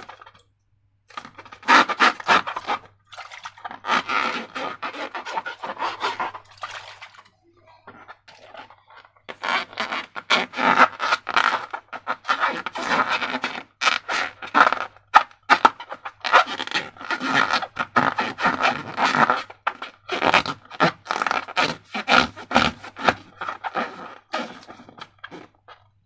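Slime being squished and worked by hand, with sticky crackling and squelching that comes in irregular bursts and short pauses.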